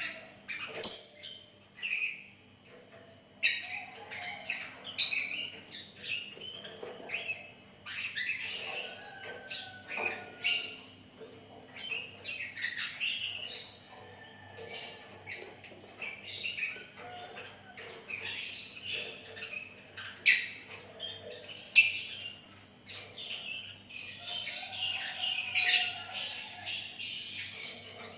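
Sooty-headed bulbul (kutilang) singing in lively bursts: quick, irregular whistled and chirping notes, some short and sharp, following one another with brief gaps.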